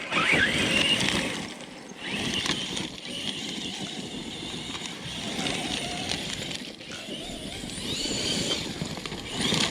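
Brushless motor of a Castle-powered RC car (1721 1260kv) whining up and down in pitch as it accelerates and slows, with the tyres and chassis rattling and crunching over rocky ground.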